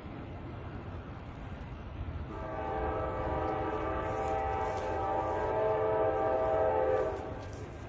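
Locomotive air horn sounding one long steady blast of about five seconds, starting a couple of seconds in, over a low rumble.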